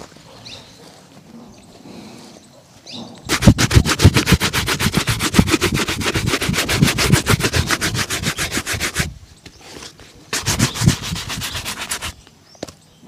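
A shoe being buffed with fast, even back-and-forth strokes, about ten a second, in a long spell of about six seconds. After a short pause comes a second spell of about two seconds.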